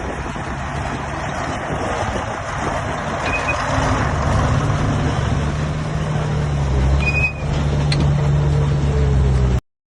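Heavy diesel earthmoving machinery running under load, its engine growing louder a few seconds in, with two brief high chirps; the sound cuts off abruptly just before the end.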